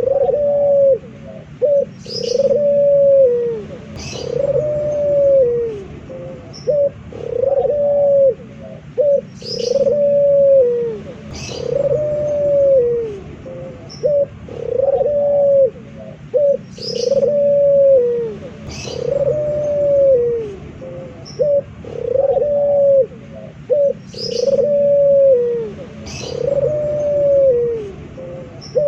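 Male puter dove (domestic Barbary dove) cooing over and over: a drawn-out coo that rises and falls, repeated about every two seconds with short clipped notes between. Sharp high chirps come in pairs about every seven seconds.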